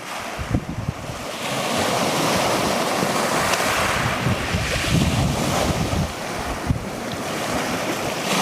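Black Sea surf washing onto a stony shore: the hiss of a breaking wave swells about a second in and eases off near six seconds before building again. Wind buffets the microphone.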